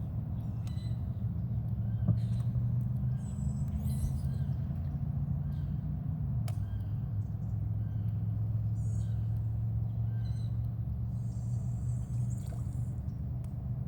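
A steady low hum that steps down in pitch about six and a half seconds in, with birds chirping now and then and a few light clicks.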